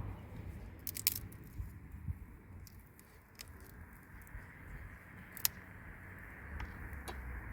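Scattered sharp clicks and cracks, the loudest about a second in and again about five and a half seconds in, over a steady low background noise.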